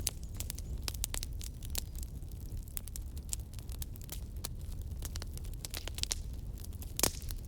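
Bonfire crackling: irregular sharp pops and snaps over a low steady rumble, with one louder pop near the end.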